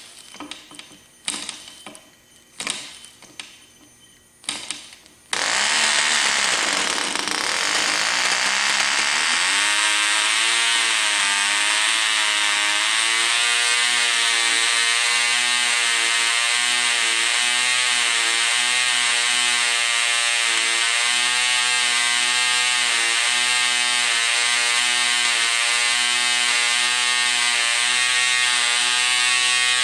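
Cox .020 two-stroke glow-plug model engine: a few short bursts as it is spun over, then it fires about five seconds in and runs on at a high pitch. After a few seconds its pitch wavers up and down as the needle valve is leaned and opened to find the right mixture, the speed going up and down at the lean point.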